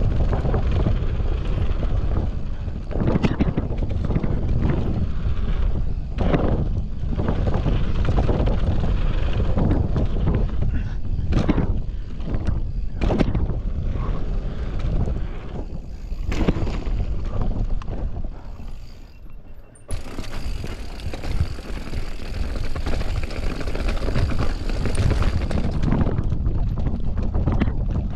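Mountain bike ridden fast down a dirt trail: steady tyre and wind rumble with frequent rattling knocks from the chain and frame over bumps and landings. The character of the noise changes abruptly about two-thirds of the way through, turning much hissier.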